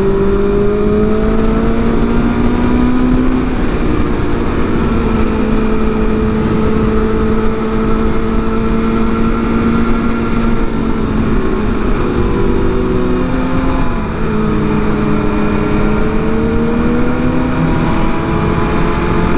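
Sportbike inline-four engine pulling steadily under way, heard over heavy wind rush on a helmet or bike microphone. The engine note creeps up and drops back several times as the throttle and gears change, with a brief dip about fourteen seconds in.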